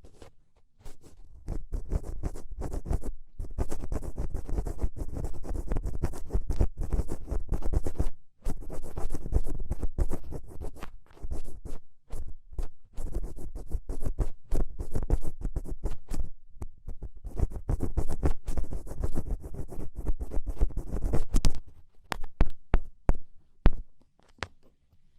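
Black ear pick scraping and scratching in ear-cleaning ASMR: dense runs of rapid scratches with a low rumble, broken by short pauses, thinning to scattered light clicks near the end.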